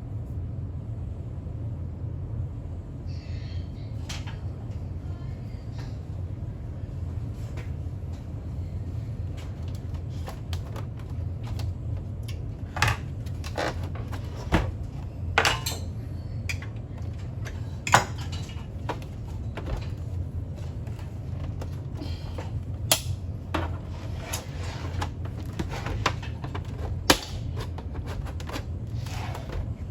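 Scattered clicks and knocks of tools and small parts being handled while a Bosch Vero Barista coffee machine is taken apart, over a steady low hum. The clicks come more often in the second half.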